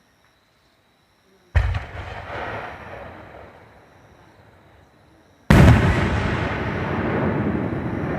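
Two aerial firework shells bursting close by: a sharp boom about one and a half seconds in, then a louder one near the middle. Each boom is followed by a long rolling echo that slowly dies away.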